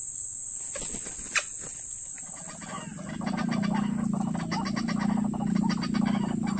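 White-breasted waterhen calling: loud, rapid, rhythmic croaking that starts about three seconds in, over the steady high whine of insects.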